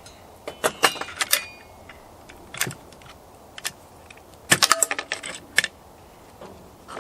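Small metal chainsaw engine parts clicking and clinking as they are handled by hand, in two bursts of sharp clicks: one about half a second in and another at around four and a half seconds.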